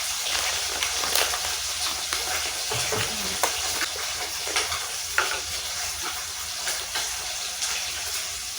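Food sizzling in a pan on the stove, a steady hiss, with a spoon clicking and scraping against the pan as it is stirred.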